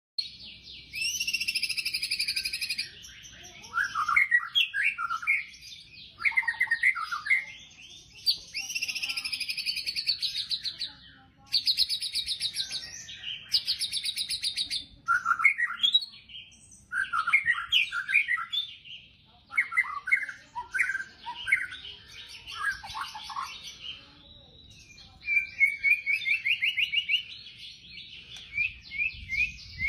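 White-rumped shama (murai batu) singing: bursts of about two seconds of very fast rattling trills, several times over, alternating with clusters of short, varied whistled notes. These are the rapid-fire 'tembakan' phrases prized by shama keepers.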